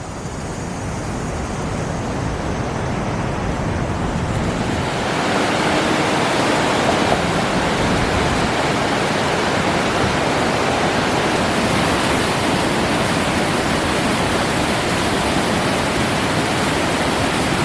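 The steady rush of Niagara Falls water, swelling over the first five seconds and then holding loud and even.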